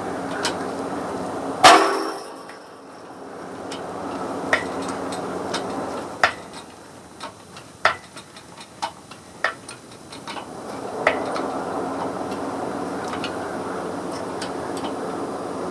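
Metal-on-metal shop work on a car rear axle: one sharp loud clank with a short ring a couple of seconds in, then a string of lighter metallic taps and clinks, over a steady background hum.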